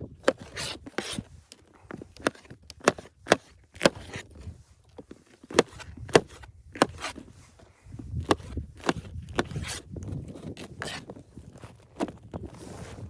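Irregular sharp knocks and scrapes, several of them loud, with a low rumble underneath from about eight seconds in.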